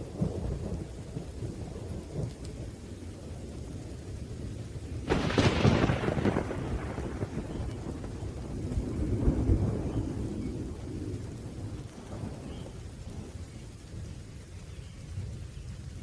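Thunderstorm: rolling thunder rumbling under steady rain, with a sudden sharp thunderclap about five seconds in that rolls away over a few seconds, then another swell of rumble a few seconds later.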